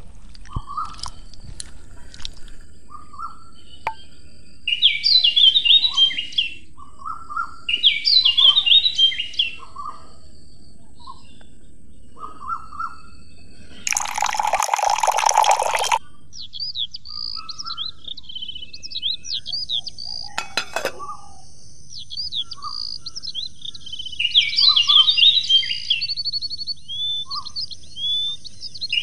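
Birds chirping, with one short, busy song phrase repeating every few seconds. About halfway through, water pours for about two seconds into a small metal pot of rice.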